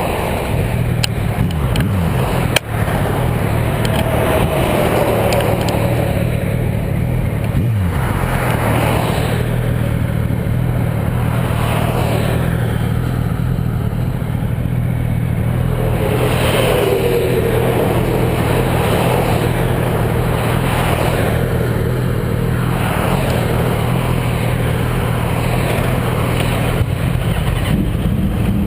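Motorcycle engine running steadily at road speed under a rush of wind, with other vehicles swelling past and falling away in pitch several times. A single sharp click about two and a half seconds in.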